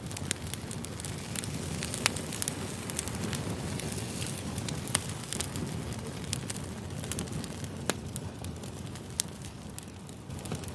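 Burning firewood crackling: a steady low rumble of the fire with scattered sharp pops of the wood, the loudest about 2, 5 and 8 seconds in.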